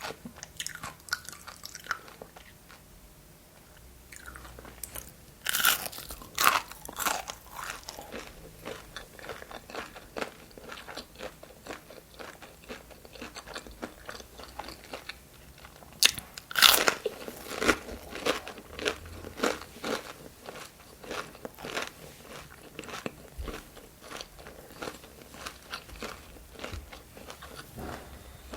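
A person biting and chewing crunchy food close to the microphone. There are loud crunchy bites about five and a half seconds in and again about sixteen seconds in, with steady chewing crunches in between.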